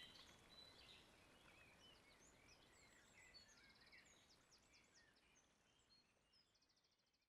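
Faint songbirds chirping and calling, with two quick trills, over a low steady hiss, all fading out gradually toward the end.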